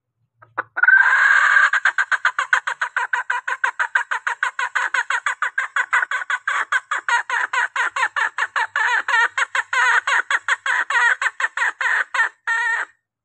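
Female green junglefowl lure call: a longer opening note, then a long, rapid, even run of short clucking calls at about six a second, cutting off just before the end. It is a hen's call that draws in cock birds.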